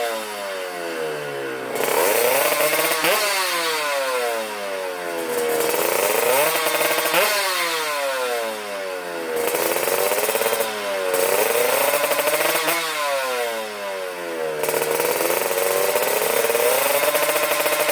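Tuned two-stroke Kawasaki KR motorcycle engine with a 59 mm bored-out cylinder, revving up and dropping back over and over, its pitch climbing and falling several times before holding steadier near the end.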